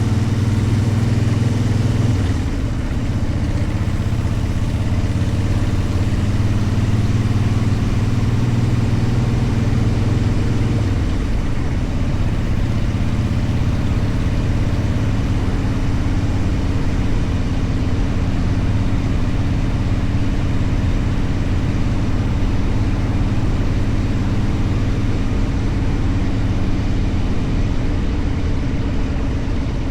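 Motorcycle engine running steadily during a ride, its note shifting slightly about two seconds in and again around eleven seconds in.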